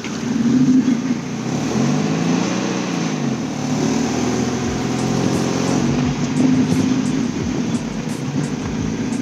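Mazda Miata's four-cylinder engine revving during a manual pull-away, with too much RPM. The revs climb and fall back once in the first few seconds, then stay up with smaller rises and dips.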